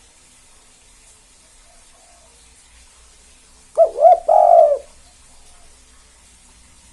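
Spotted dove (tekukur) cooing one phrase about four seconds in: two short notes followed by a longer drawn-out note, low and hollow in pitch. Faint coos from other doves sound in the background.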